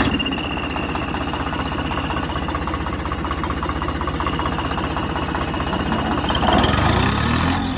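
Tractor engine running with a rapid, even chug, getting a little louder and higher near the end.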